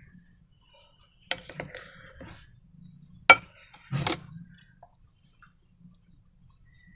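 Handling noises from slime-making with balloons and containers: a few sharp clicks and knocks. The loudest is a single sharp click about halfway through, with a short cluster of knocks shortly after it.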